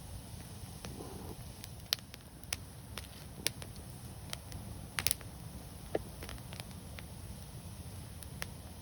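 Wood fire crackling: scattered sharp pops over a steady low rumble, the loudest a quick cluster of pops about five seconds in.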